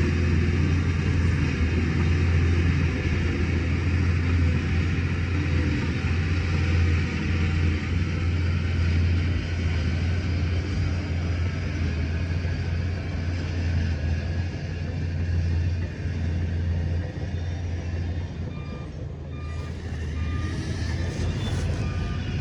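Heavy earthmoving machine's diesel engine running with a steady low rumble. Near the end a reversing alarm starts, a high beep repeating at an even pace.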